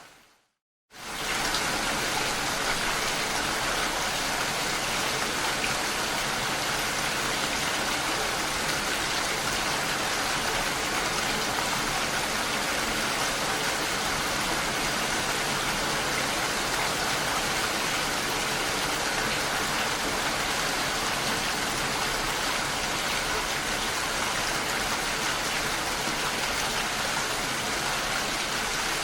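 Recorded rain falling steadily, an even dense hiss. Within the first second it breaks off into brief silence, then fades back in and runs on unchanged.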